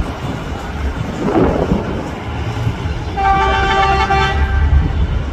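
A horn sounding one steady note for about a second and a half, starting about three seconds in, over a low rumble; a brief rushing swell comes about a second in.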